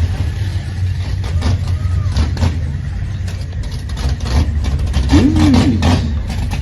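Gasser drag car's engine running with a steady low rumble.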